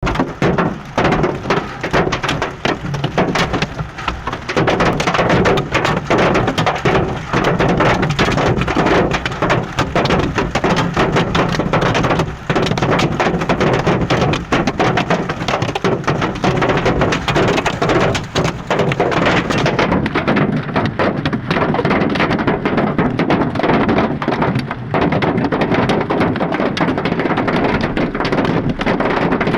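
Hailstones pelting a car, a dense continuous clatter of countless small hits on the metal and glass.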